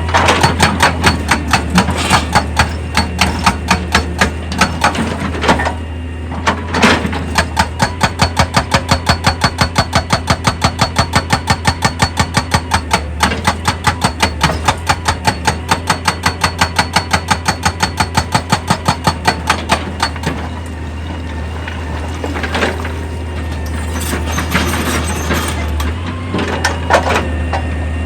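Excavator working rock: its diesel engine runs steadily under a fast, even pounding of about four blows a second, which stops about twenty seconds in and gives way to scattered knocks and crunches of rock.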